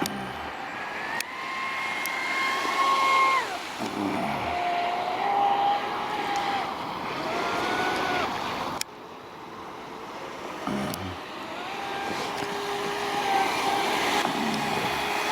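Traxxas Spartan RC speedboat's brushless electric motor whining at high speed. The pitch rises and holds, then falls away sharply each time the throttle is let off. The whine drops off abruptly about nine seconds in, then builds back up.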